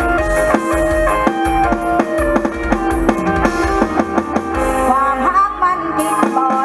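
Mor lam sing band playing an instrumental passage: a melody line of held notes over a drum kit with a steady bass-drum beat and snare. Near the end the drums drop away and sliding notes take over.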